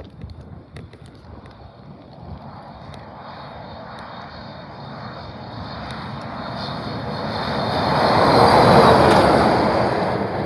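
An 18-wheeler semi truck passing on the highway without sounding its horn: its engine and tyre noise builds slowly, peaks about nine seconds in, then begins to fade.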